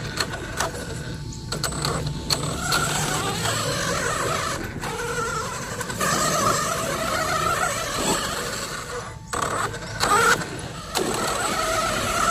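Electric RC monster truck (DHK Maximus) driving, its motor whining with a pitch that rises and falls with the throttle.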